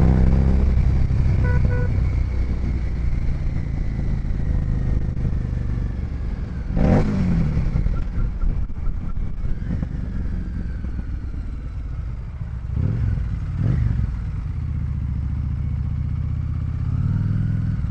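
Harley-Davidson Street 750's 749 cc V-twin engine and exhaust running steadily while the bike cruises in sixth gear at about 100 km/h. Brief louder sweeps come about seven seconds in and again around thirteen seconds.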